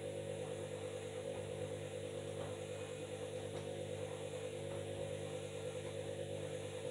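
Washing machine running, its motor giving a steady hum with a light, even pulsing in level.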